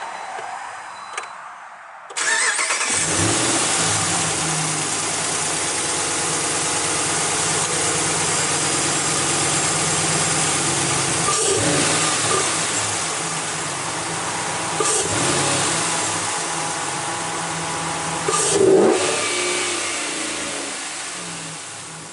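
2013 Ram 1500's 5.7-litre Hemi V8 starting through a Flowmaster Super 40 muffler (stock resonators and tips) with a K&N intake. It catches about two seconds in and settles to a steady idle. Three short revs follow, the last and loudest near the end, before the idle eases down.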